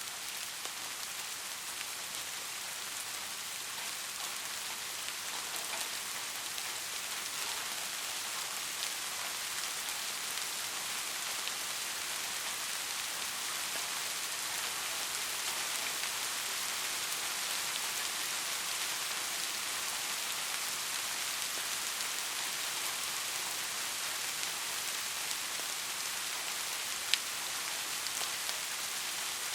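Steady rain falling, an even hiss of many small drops, with one sharper drop tick near the end.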